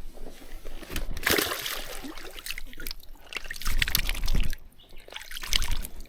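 Water splashing and trickling, with many small irregular clicks and a couple of dull low bumps about four and five and a half seconds in.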